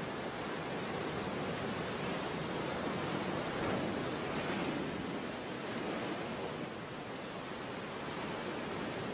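Sea surf: a steady wash of waves that swells about four seconds in and eases off a few seconds later.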